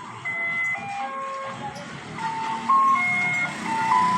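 A simple electronic jingle: a melody of pure, beep-like notes, each held briefly, stepping up and down in pitch.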